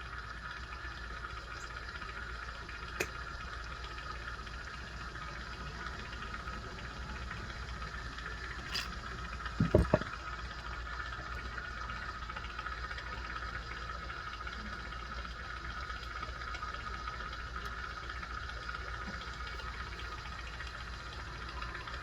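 Steady hiss over a low hum from the jeweler's bench equipment while a broken link is filled with solder, with a faint tick about three seconds in and a short knock about ten seconds in.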